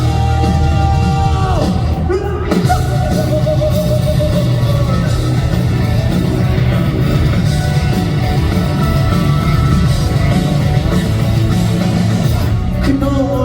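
A live J-rock band plays loudly, with electric guitar, bass and drums. A male lead vocalist holds long sung notes, one sliding down in pitch about two seconds in, followed by another long held line.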